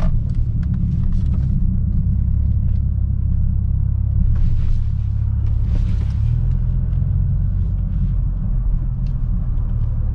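Low, steady rumble of a Mercedes-AMG A35's turbocharged four-cylinder engine and its back-box-deleted exhaust, heard inside the cabin as the car rolls along at low speed. A scatter of faint ticks comes in the first few seconds.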